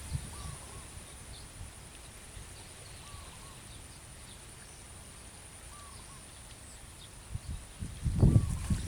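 Quiet outdoor background: a steady high-pitched whine, and a faint short call that comes back every two to three seconds, typical of a bird. Near the end comes a louder low rustling thump.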